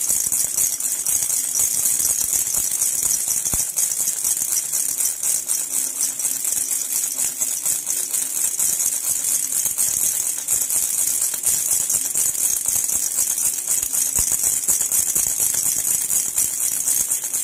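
Jhunjhuna baby rattle shaken continuously, a steady, fast, high-pitched jingling that soothes an infant.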